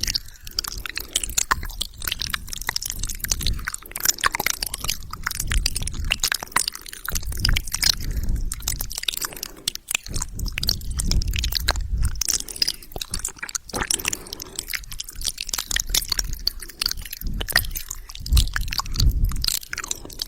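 Close-miked wet mouth sounds for ASMR: a rapid run of lip smacks, tongue clicks and saliva pops, with soft low thumps now and then.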